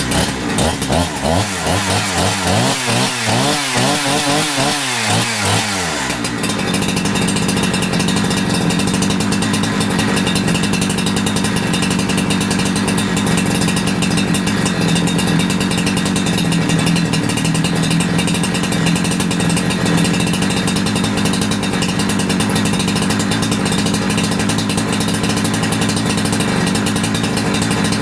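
Holzfforma G372XP two-stroke chainsaw engine running just after starting, its speed rising and falling repeatedly for about the first six seconds. It then settles into a steady, even run, ready for carburettor tuning.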